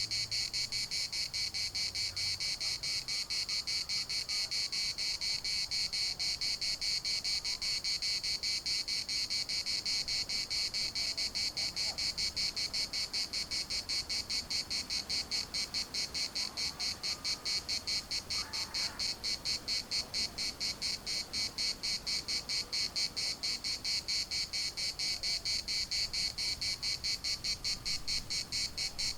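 Chorus of cicadas: a steady high-pitched buzzing that pulses rapidly and evenly, several beats a second, without let-up.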